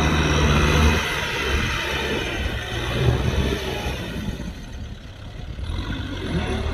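Kubota M6040SU tractor's diesel engine running. About a second in, the steady engine note gives way to a rougher, noisier sound that fades somewhat toward the middle, and a rising engine note comes back near the end.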